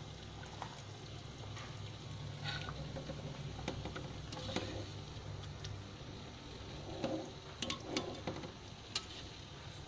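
Chicken pieces cooking in bubbling spice paste in a large wok over high heat, a steady sizzle and bubbling with a low hum under it. A spatula scrapes and knocks against the pan now and then.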